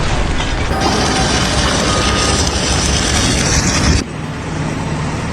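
Loud, rumbling vehicle or heavy-machinery noise that cuts off abruptly about four seconds in, giving way to a quieter, steady low engine hum.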